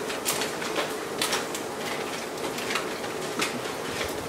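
Scattered light clicks and taps from nuggets and their boxes being handled while they are counted, over a faint steady hum.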